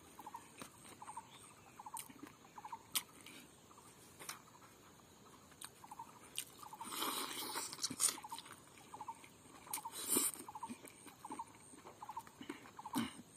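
Close-up eating sounds: a man chewing smoked chicken and rice with wet lip smacks and mouth clicks, with two longer bursts of chewing noise. Behind it a faint chirp repeats about twice a second.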